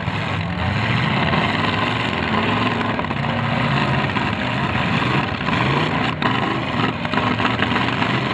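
Several demolition derby cars' engines running and revving at once, their pitches rising and falling and overlapping.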